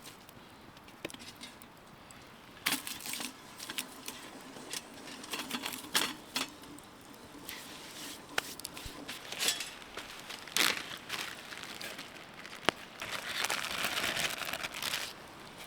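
Plastic food packaging crinkling and rustling as it is handled and torn open, with scattered sharp clicks and taps; a longer rustle comes near the end.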